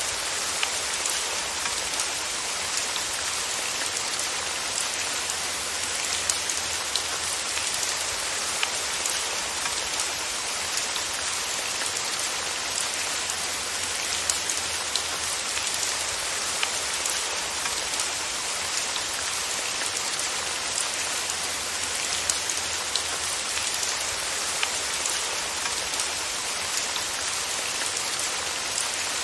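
Steady rain falling, with an even hiss and many small distinct drop ticks throughout.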